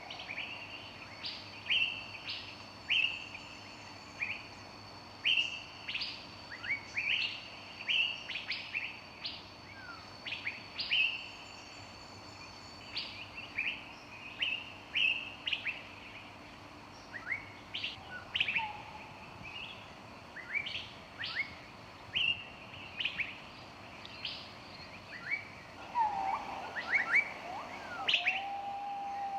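Several songbirds chirping: a steady run of short, quick chirps, with lower whistled notes coming in near the end.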